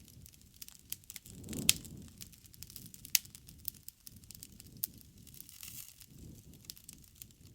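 Wood campfire crackling, with irregular sharp pops over a low steady rumble of the burning fire; the two loudest pops come about a second and a half and three seconds in.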